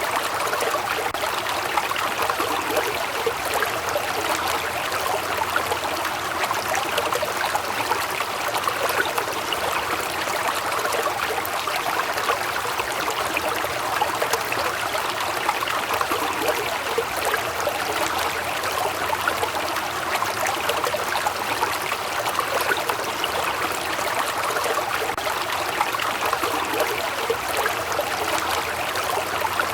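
Waterfall: water splashing and rushing in a steady, even sound without pause.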